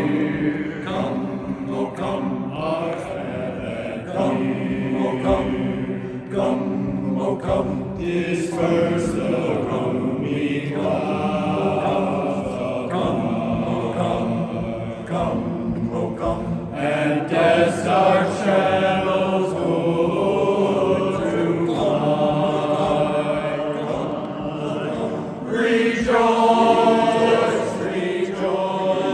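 Barbershop chorus singing a cappella in close harmony, with sustained chords that shift from note to note.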